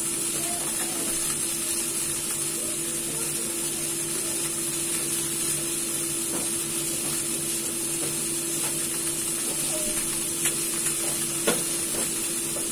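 Chicken wing rolls sizzling steadily in hot oil in a frying pan, with a steady low hum underneath. Two sharp pops come near the end.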